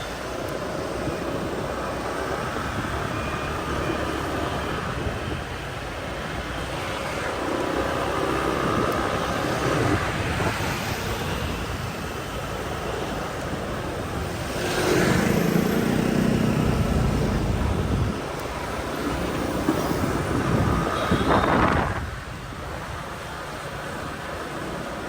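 Riding a motorbike through street traffic: steady engine and rushing air noise with the hum of surrounding vehicles. Another vehicle's engine swells close by a little past the middle, and a second one passes loudly near the end.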